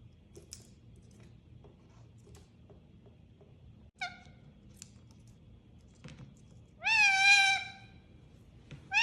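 Pet parrot calling: one short call about four seconds in, then a loud drawn-out call that rises and holds its pitch near the end, with another one starting just before the end.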